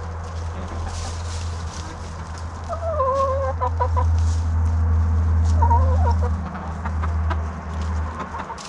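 Hens clucking, with two short pitched calls about three and six seconds in, over a steady low rumble.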